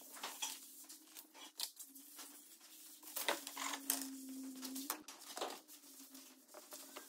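Scattered light clicks and taps over a faint steady hum.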